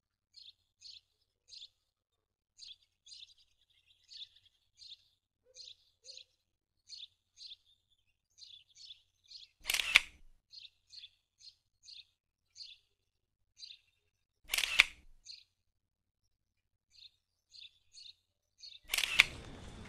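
Small bird chirping: short high chirps, two or three a second, with brief pauses. Three loud sharp clicks cut in about five seconds apart, and a steady background hiss starts with the last one near the end.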